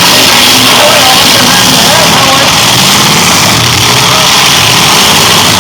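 Demolition derby cars' engines running, loud and distorted, with music mixed in.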